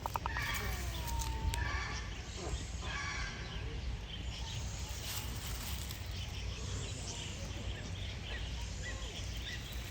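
Several birds chirping and calling in short, curving notes over a steady low hum.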